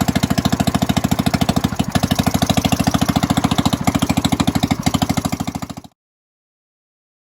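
1932 Fairbanks-Morse Z Style D 'salt block' single-cylinder engine running steadily on its throttle governor, with an even, rapid beat and a few sharper clicks. The sound cuts off abruptly about six seconds in.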